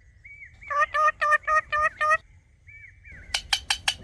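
A parrot calling: faint short whistled chirps, then about a second in a run of six short, evenly spaced repeated notes, and near the end a fast series of sharp clicking chirps.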